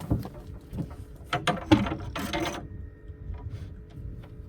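A string of metallic clicks and rattles from gear being handled, with a short harsh scrape about two seconds in.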